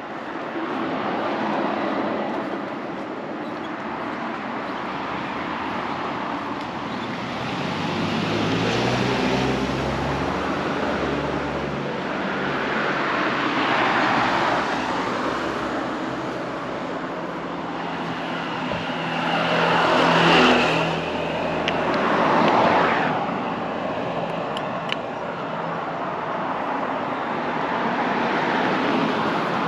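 Street traffic: a series of vehicles passing close by one after another, each swelling and fading, with an engine's steady low hum running under the middle stretch.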